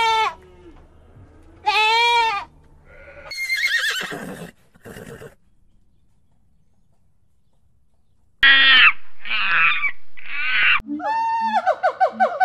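A goat bleating twice, two long calls about two seconds apart. After them come other animal calls: a shorter high call, a pause, then a run of loud high calls ending in quick repeated calls.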